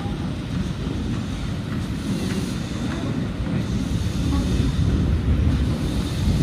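A train running on the line: a low rumble that slowly grows louder, with wind buffeting the microphone.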